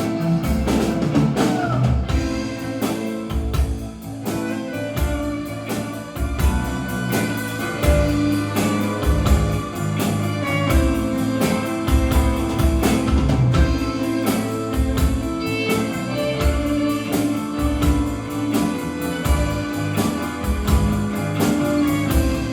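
Live band playing an instrumental break between sung verses, with a steady drum beat under held chords and melody notes.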